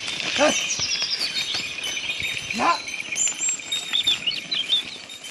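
Outdoor rural ambience: birds chirping over a steady high insect buzz, with two short rising animal calls, about half a second and two and a half seconds in.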